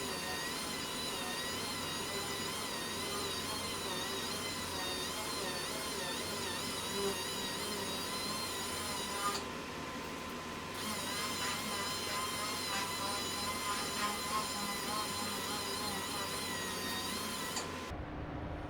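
Double-action sander whining steadily as it sands primer-surfacer on a car body panel, its pitch wavering as it is worked over the surface, with a fan's hiss underneath. It stops suddenly near the end.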